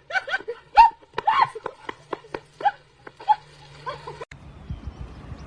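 An animal's short, high calls, a dozen or so quick ones in irregular bursts, cutting off suddenly about four seconds in.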